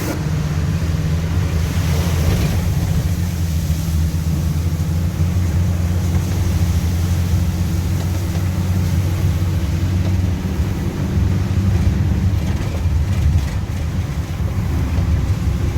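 Car driving, heard from inside the cabin: a steady, loud, low rumble of engine and road noise.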